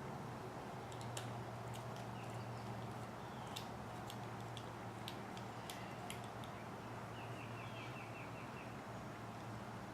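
Faint clicks and taps of a small screwdriver and tiny screws being worked into an RC truck's spur gear hub, over a steady low hum. A short run of quick high ticks comes about seven seconds in.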